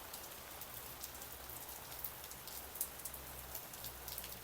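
Rain falling steadily, an even hiss with many scattered sharp ticks of individual drops.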